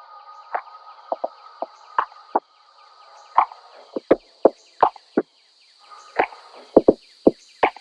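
A string of sharp, irregular clicks and knocks, about two to three a second, over a faint steady high-pitched hum.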